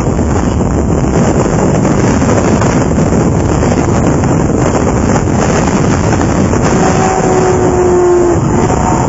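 Loud, steady rushing noise with a heavy low rumble, of the kind made by wind buffeting the microphone, with a faint steady tone entering about seven seconds in.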